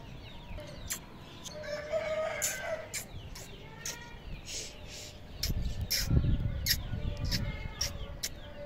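Birds calling in short clucks and chirps, with sharp clicks scattered through. A low rumble runs from about five and a half to seven and a half seconds in.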